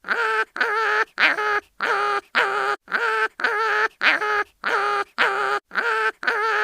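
Cartoon animal crying-in-pain sound effect: short, wavering, pitched cries about two a second, with brief gaps between them, repeating as a loop every few seconds.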